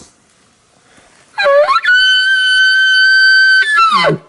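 Elk bugle: a whistle that climbs about a second and a half in, holds steady and loud for about two seconds, then drops into a low grunt near the end.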